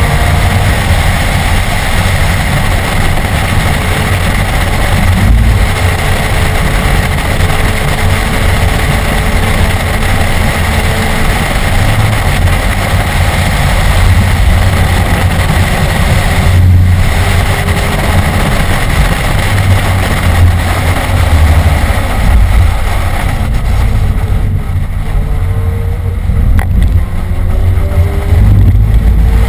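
Inside the cabin of a BMW E46 M3 driven hard on track: the 3.2-litre S54 inline-six running under load, mixed with road and wind noise. It is a loud, steady low rumble throughout.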